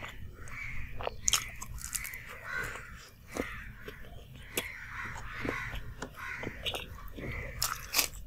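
Close-miked biting and chewing of a fried samosa (singhara): sharp crunches of the crisp pastry over steady wet mouth sounds. The loudest crunches come a little over a second in and near the end.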